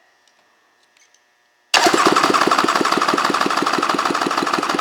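Three-cylinder engine from a 2003 Polaris MSX 140 personal watercraft being cranked over by its starter for a compression test on the PTO-side cylinder. The cranking starts suddenly about two seconds in as a loud, fast, even pulsing and keeps going. The test reads a healthy 120 psi.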